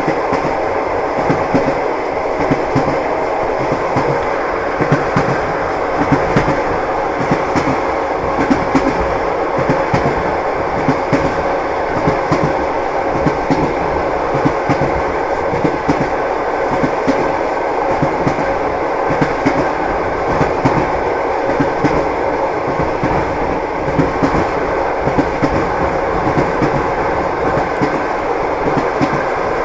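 Train wheels knocking over the rail joints (clickety-clack) under a moving railway carriage, over a steady running rumble.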